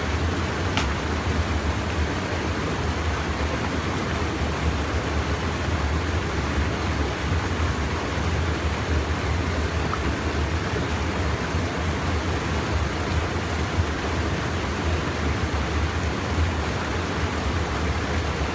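Steady rushing of river water, even and unbroken, with one faint click about a second in.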